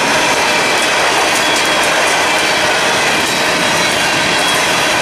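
Empty coal hopper cars rolling past at close range: a loud, steady rumble and rattle of steel wheels on rail, with faint short high clicks mixed in.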